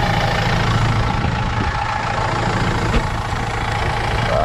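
Engine idling steadily with its belt drive turning, the drive belt freshly tightened after slipping on a worn tensioner. A single sharp click comes about three seconds in.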